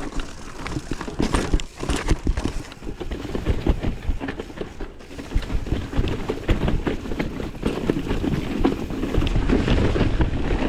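Mountain bike riding down a rough, technical downhill trail: a dense, irregular clatter of tyres, chain and frame over rocks and roots, with a low rumble underneath.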